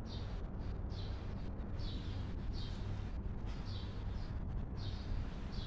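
A bird repeating a short, high chirp about once every second, steady and even, over a steady low background hum.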